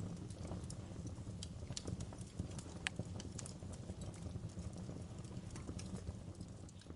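Large open bonfire crackling: irregular sharp pops and snaps, one especially sharp snap about three seconds in, over a steady low rumble of the burning fire.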